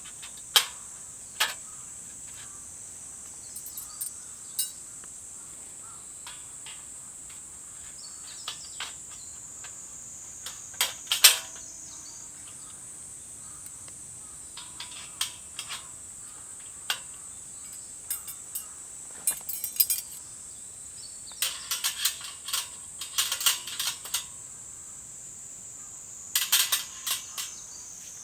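Steady high-pitched chirring of crickets, with irregular sharp clicks and light clatter over it, in small clusters about three quarters of the way through and near the end.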